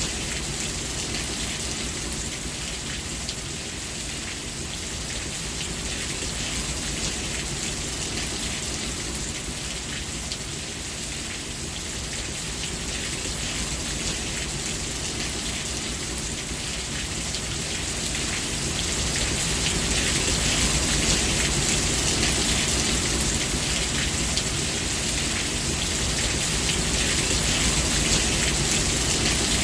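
Steady rain falling, a dense hiss of drops pattering on surfaces, growing a little heavier about two-thirds of the way through.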